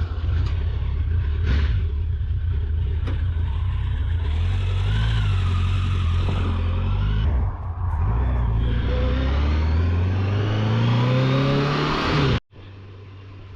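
Motorcycle engine accelerating under the rider, its pitch climbing, with a brief drop about seven and a half seconds in like a gear change. Near the end it cuts off abruptly to a quieter, steady engine drone.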